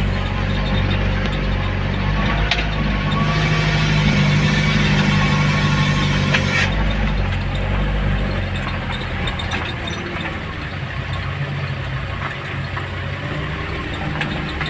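A vehicle engine running steadily at low revs, with a hiss from about three to six and a half seconds in.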